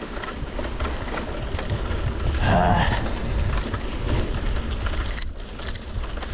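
Mountain bike rolling slowly down a rough dirt trail: a steady low rumble and rattle from the tyres and frame. About five seconds in, a thin high squeal holds for about a second and a half.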